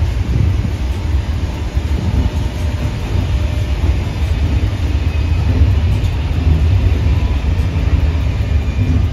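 Corail passenger coaches and their driving trailer rolling past on the rails with a steady low rumble of wheels and bogies.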